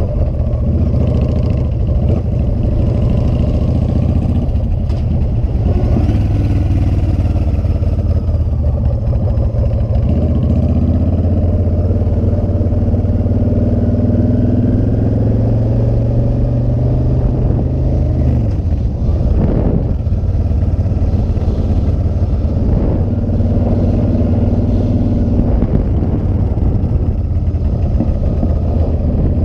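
Motorcycle engine running under way, its pitch climbing steadily for several seconds as it accelerates, then dropping suddenly about two-thirds of the way through. A brief rush of noise follows the drop, and the engine pulls again near the end.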